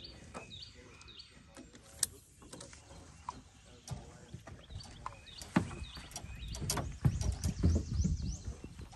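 Birds chirping and calling over and over, with a few sharp knocks and a low rumble that builds about seven seconds in.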